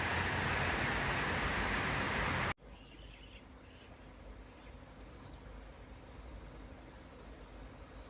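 Steady rushing of a waterfall, which cuts off abruptly about two and a half seconds in. Then quiet outdoor air, with a bird chirping and then singing a run of about seven short rising notes, roughly three a second.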